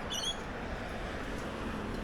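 A single short high bird chirp just after the start, then steady outdoor background hiss.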